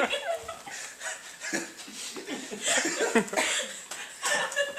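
People laughing and chuckling in short bursts, mixed with indistinct voices.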